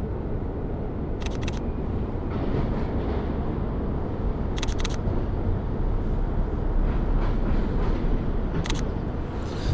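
Camera shutter firing three times, a few seconds apart, each a quick double click, over a steady low outdoor rumble.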